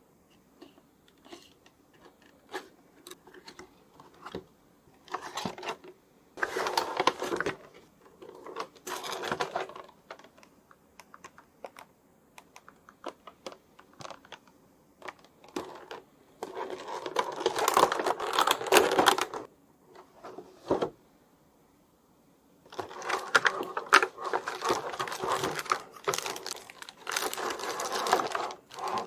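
Action figure packaging being handled: scattered small clicks and taps, with several bursts of plastic and cardboard rustling and crinkling lasting a second or more each.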